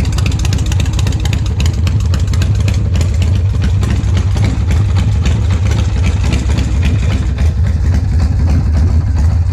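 2003 Vengeance Motorcycles Warrior chopper's V-twin engine running steadily at idle, a loud, even, rapid beat.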